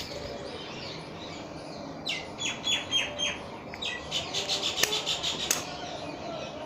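A small bird chirping: a run of short, falling chirps about two seconds in, then a quicker string of chirps from about four to five and a half seconds.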